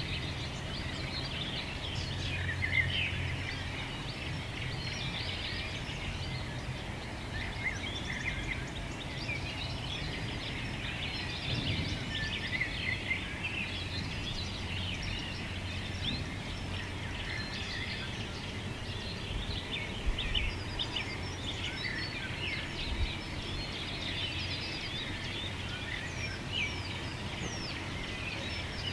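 A dense chorus of many small birds chirping at once, a continuous mass of short overlapping calls, over a low steady hum that is strongest in the first few seconds and again near the end.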